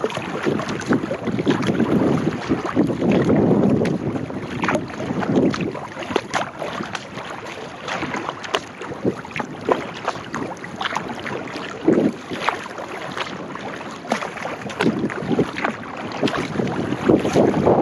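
Kayak paddle dipping into the water, with many small splashes and drips and water sloshing along the hull, louder in the first few seconds and again near the end. Wind gusts on the microphone.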